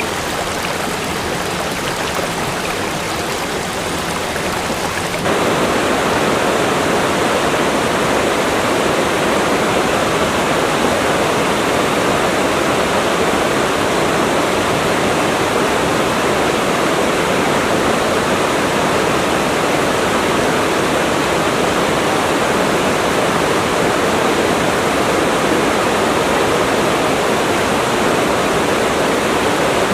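Steady rush of water pouring down a waterfall, an even noise with no let-up; it becomes louder about five seconds in.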